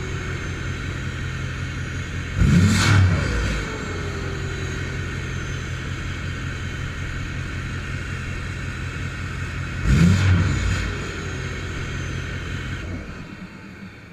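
Ford Powerstroke V8 turbodiesel with a straight-pipe exhaust idling, revved twice. After each rev a turbo whistle falls in pitch as the turbo spools down. The engine sound falls away about a second before the end.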